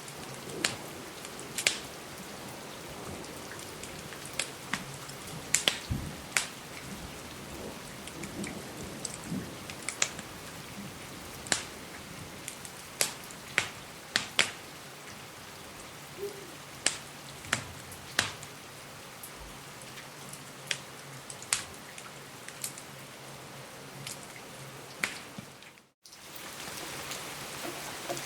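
Steady rain with irregular sharp crackles and pops from a wood fire, roughly one a second. Near the end the sound cuts out briefly, then the rain resumes.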